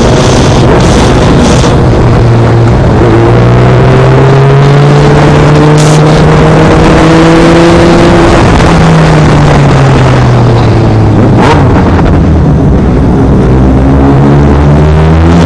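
Honda CBR600F's inline-four engine running on the move under heavy wind noise. The engine pitch climbs slowly for several seconds, drops away, then climbs again near the end.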